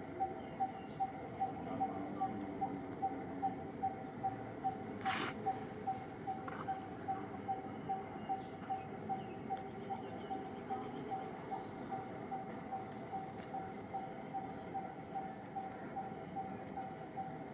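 Outdoor insect chorus: a steady high-pitched drone over a low note repeated about three times a second. A brief rustle about five seconds in.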